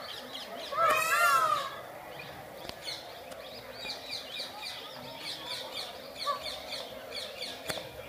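A loud, voice-like call about a second in, then many small birds chirping in quick, high, overlapping calls.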